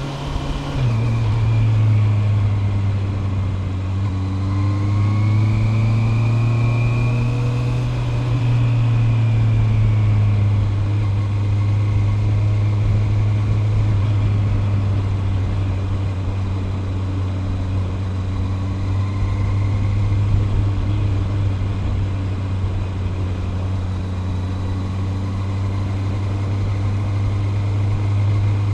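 Honda CB650R's 649 cc inline-four engine, fitted with a DNA air filter, running at steady revs while riding. Its pitch drops a little about a second in and then holds steady.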